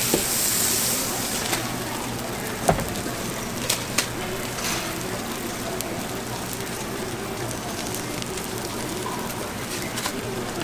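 Food sizzling steadily on a hot griddle, with a few sharp clicks of metal utensils about a third of the way in.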